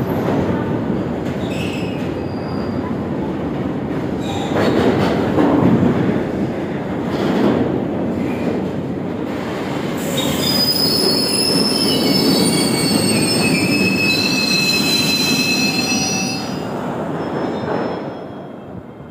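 Goods train of BTPN tank wagons rolling past: a steady rumble of wheels on rail, with high-pitched wheel squeal from about ten seconds in that fades a few seconds later. The noise drops away near the end.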